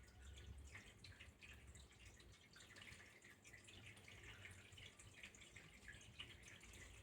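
Faint trickling water: a continuous, irregular patter of small drips and splashes, with a low rumble underneath.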